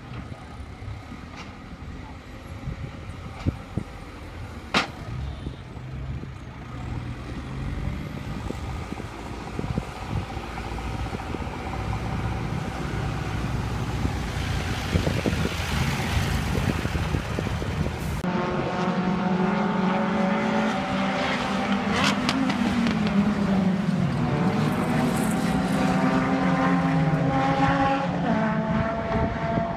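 Racing engines at a circuit: a rumble that grows louder, then from about halfway a near engine revving up and dropping back again and again as it is driven hard.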